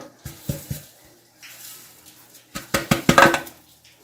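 Kitchen clatter from a cake pan and utensils being handled: a few light knocks, a brief rustle, then a quick run of louder knocks and taps near the end.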